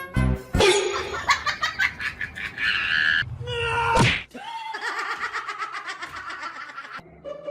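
A person laughing, with loud pulsed bursts at the start, followed by further voice-like sounds.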